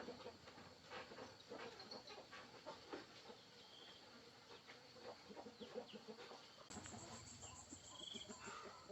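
Near silence with faint scattered clicks and a few short, high chirps from chickens, one a little before the middle and one near the end.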